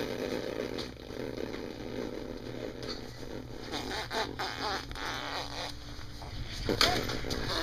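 A baby blowing wet raspberries: a long, spluttering lip buzz that stops about five and a half seconds in, followed by a short vocal squeak near the end.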